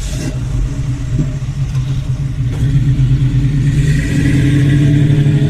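Kawasaki motorcycle engine running under way, its pitch stepping up about halfway through and holding higher as it accelerates, with a rush of wind noise over it.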